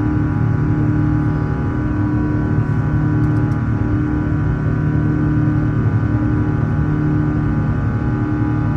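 Airbus A350's Rolls-Royce Trent XWB jet engines running, a loud, steady drone with several steady tones held over a rushing noise.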